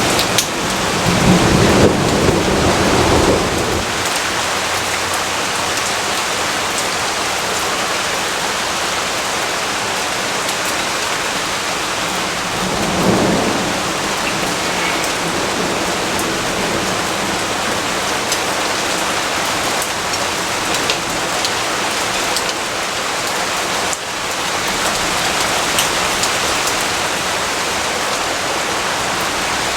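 Steady heavy rain, with thunder rumbling low twice: a longer roll near the start and a shorter one about thirteen seconds in.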